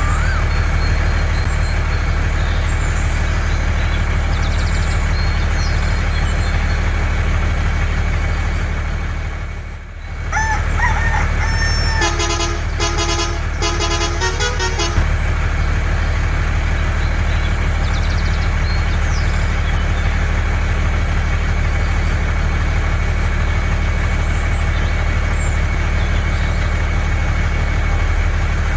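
Steady vehicle engine drone, interrupted briefly about ten seconds in. About twelve seconds in, a run of short toots sounds over it for a few seconds.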